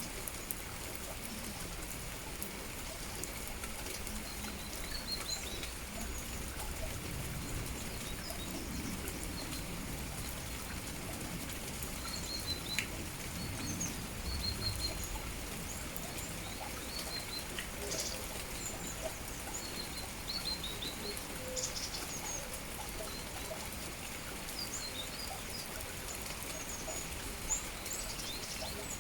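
Steady rain falling, with small birds chirping: many short, high calls scattered throughout over the even hiss of the rain.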